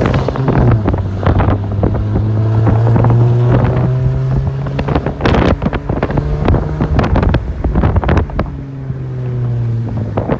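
A car engine running at a steady low speed, with wind buffeting the microphone in repeated crackling gusts.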